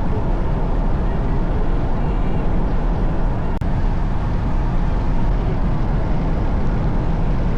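Steady low road and engine noise of a moving van, heard from inside the cabin.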